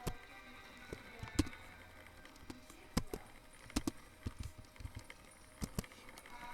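Irregular sharp knocks and clicks, about a dozen, spaced unevenly over a faint steady background.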